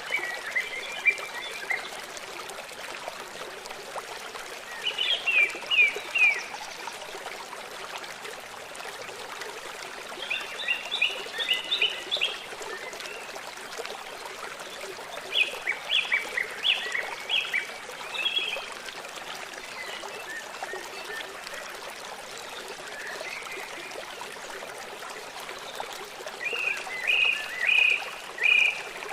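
Forest birdsong over steadily running water. A songbird sings short phrases of quick high notes about five times, a few seconds apart, above a constant rush of flowing water.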